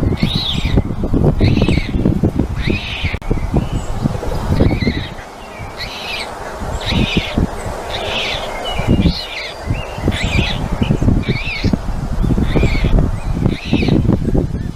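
A bird calling over and over, a short chirp about once a second, over low rumbling and knocking against the nest microphone.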